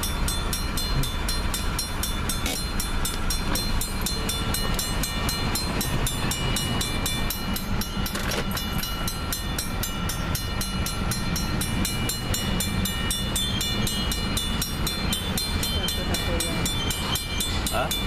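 Double-stack container train cars rolling slowly in reverse, a steady low rumble, while the grade-crossing bell rings on in quick, even strokes.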